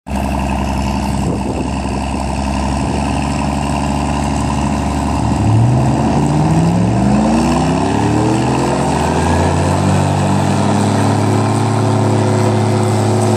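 Vehicle engine working under load in a pull between a pickup truck and a Cockshutt tractor. It runs steadily, then about five seconds in the revs climb for a few seconds and hold at a higher pitch.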